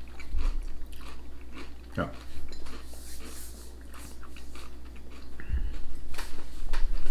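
Crunchy crisps being chewed, with a few soft knocks on the table, one near the start and one about five and a half seconds in.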